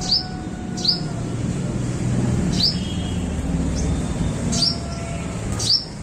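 Sparrow chirping: about six short, sharp chirps, each falling in pitch, spaced irregularly.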